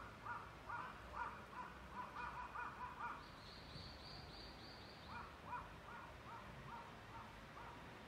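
Wild birds calling in woodland. One bird repeats a short call about three times a second, breaks off while another gives a quick run of high, thin notes, then starts again.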